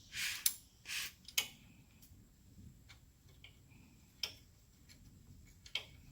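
Craftsman ratcheting wrench clicking as it backs out a wheel bearing bolt. There are four sharp clicks in quick succession, then two more spaced a second or two apart.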